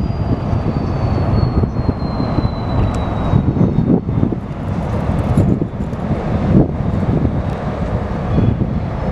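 Strong wind buffeting the microphone: a loud, gusty low rumble that swells and dips continually. A faint high whine slides slowly downward in pitch over the first few seconds.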